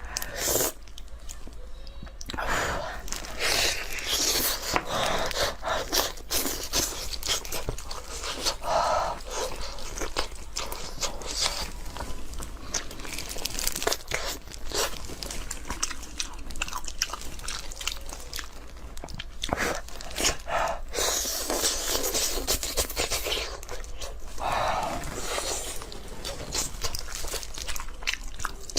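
A person eating close to the microphone, biting and chewing with many crisp crunches in quick succession.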